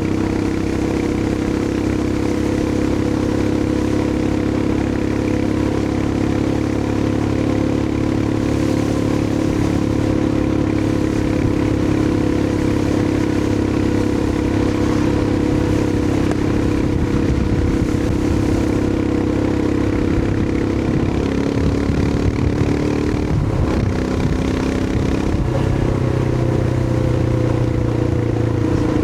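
Royal Enfield Himalayan 411's air-cooled single-cylinder engine running at a steady cruise. Its note wavers and shifts for a few seconds about three-quarters of the way through, then settles on a new steady note.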